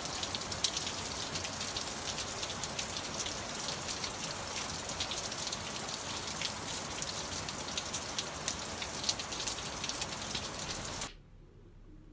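Steady rain falling, with many individual drops heard as sharp ticks over a dense hiss. It cuts off suddenly near the end.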